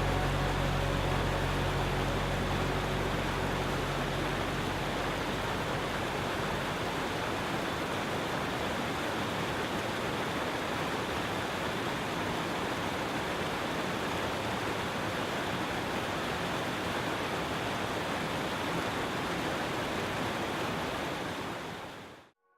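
Steady rushing of water, a mountain creek or waterfall, with a low hum that fades away in the first few seconds; the water sound fades out near the end.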